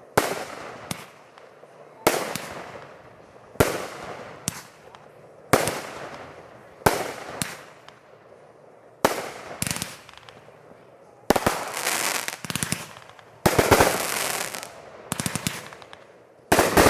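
Fireworks going off: a string of sharp bangs about one to one and a half seconds apart, each trailing off in an echo, then from about eleven seconds in, dense crackling volleys of rapid pops.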